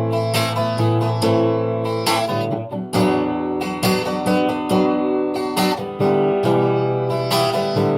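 Rock band playing an instrumental passage with no singing: strummed guitars over a steady bass line.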